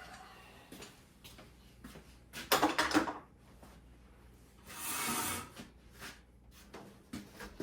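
Sectional garage door being moved by hand on its tracks to test the balance of newly tensioned torsion springs: a few clunks about two and a half seconds in, then a rolling rumble lasting about a second near the middle.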